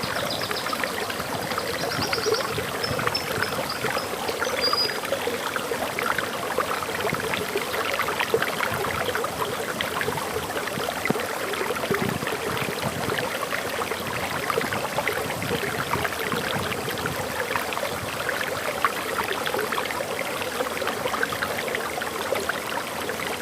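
Forest waterfall flowing steadily, a dense splashing rush of water. A bird gives a few short high chirps in the first few seconds.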